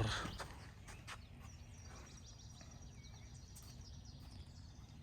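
Faint outdoor background: a steady low rumble with a few faint, brief bird chirps.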